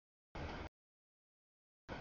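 Two short snatches of a freight train rolling past, each cutting off abruptly into dead silence as the audio track drops in and out.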